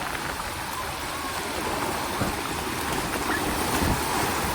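Shallow sea water washing and rushing around the waders at a beach shoreline, a steady even rush of surf.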